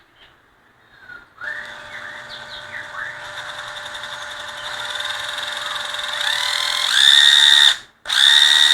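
Cordless drill-driver motor test-run under the variable-speed trigger: a whine that rises slowly in pitch as the trigger is squeezed further, reaches full speed, stops briefly near the end and starts again at full speed.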